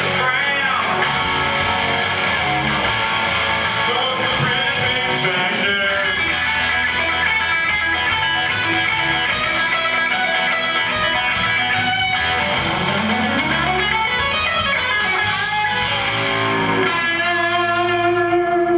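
Guitar-driven song music, strummed, that settles into a held final chord in the last couple of seconds.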